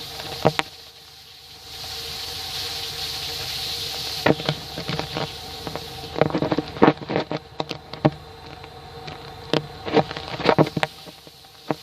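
Air hissing through a leak in a car's front exhaust pipe, the exhaust system driven by a vacuum cleaner connected to the tailpipe, with a steady hum underneath. The hiss is the sign of a leaking joint or section in the newly fitted pipe. Irregular clicks and knocks start about four seconds in and keep going until near the end.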